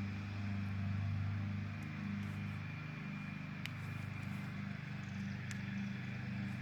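Steady low hum of a running engine, pulsing slightly, with two faint sharp clicks partway through.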